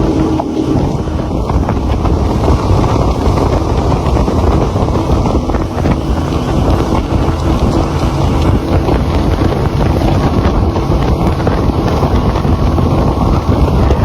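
Boat's engine running steadily, a loud, even drone and rush heaviest in the low end, with wind blowing on the microphone.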